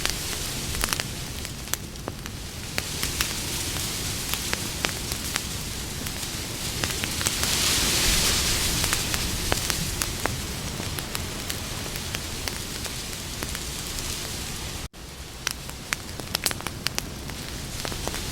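Campfire burning, with a steady hiss of flames and many sharp crackles and pops of wood. The hiss swells for a couple of seconds about eight seconds in, and the sound cuts out for an instant about fifteen seconds in.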